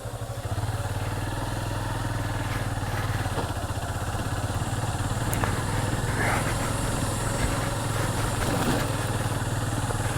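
Motorcycle engine running at low speed, picking up in level about half a second in and then holding steady, with a few faint knocks over it.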